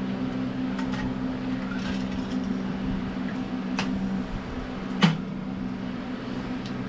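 Steady low mechanical hum with two sharp knocks, the louder one about five seconds in.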